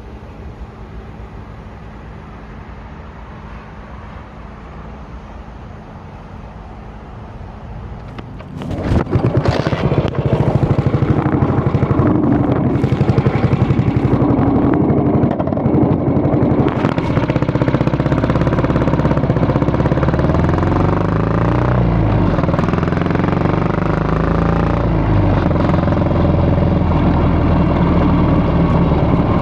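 Yamaha SR400 single-cylinder motorcycle engine, first running steadily and quieter, then much louder from about eight seconds in, its pitch rising and falling as it is revved or ridden.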